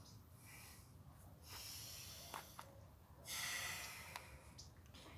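A person breathing heavily close to the microphone, with two long, hissy exhalations, the second the louder.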